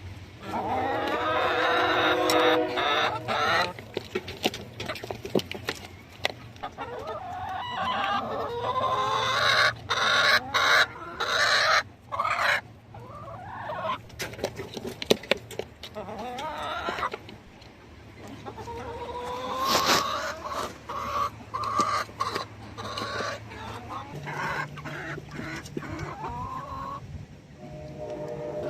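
A flock of chickens clucking and squawking as they fight over food, with many sharp taps and clicks among the calls.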